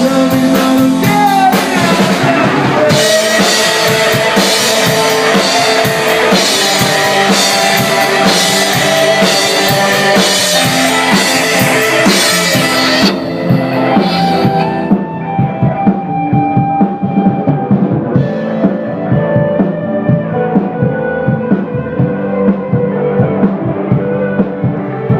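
Rock band playing an instrumental passage on electric guitar, bass and drum kit. About halfway through the cymbals stop and the band plays on more softly.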